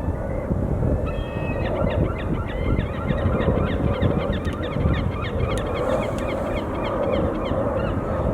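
A flock of birds calling, many short overlapping honk-like calls from about a second in until near the end, over a steady low rumble.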